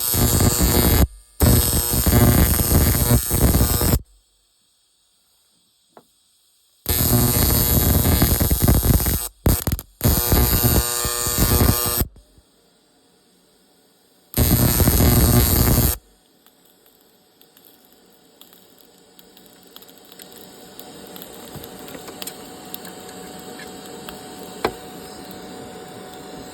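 Electric welder arc crackling and buzzing in four bursts of one to five seconds each, with a steady electrical hum and short silences between them. The welder is being tried on a snowmobile part it will not fuse to, which the welder suspects is aluminum. A quieter steady noise slowly builds after the last burst.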